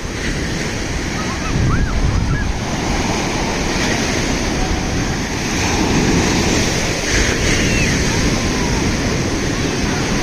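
Sea waves surging and breaking on the shore in a steady wash, with wind buffeting the microphone.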